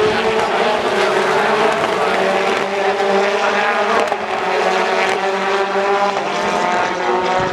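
British Touring Car Championship race car engines running at high revs, several engine notes overlapping and holding fairly steady with small rises and falls in pitch.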